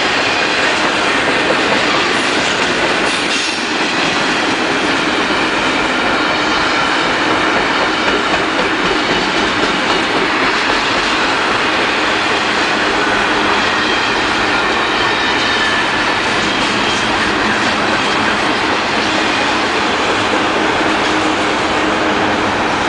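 Union Pacific double-stack container train's well cars rolling past close by: a steady loud noise of steel wheels on rail, with faint high wheel-squeal tones.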